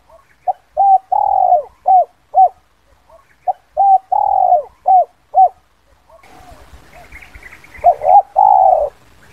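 Spotted dove cooing its 'kuk 2' call: repeated phrases of short clipped coos and a longer drawn coo that falls in pitch. From about six seconds in, fainter high chirps of other birds come in under the coos.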